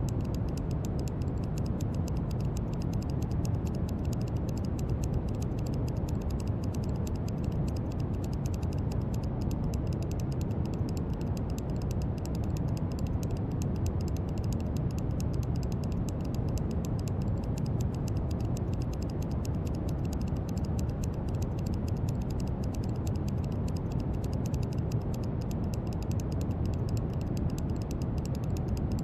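Steady brown noise: an even, deep hiss heaviest in the low end, unchanging throughout.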